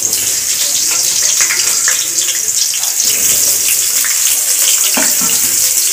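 Large potato chunks sizzling in hot oil in a kadai as they are dropped in: a loud, steady frying sizzle with crackles, the sign that the oil is hot enough. A light knock about five seconds in.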